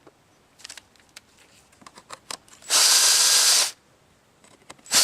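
Power drill or electric screwdriver running in short bursts to back out the screws holding a birdhouse's entrance predator guard. There is one burst of about a second near the middle, another starting at the very end, and a few light handling clicks before them.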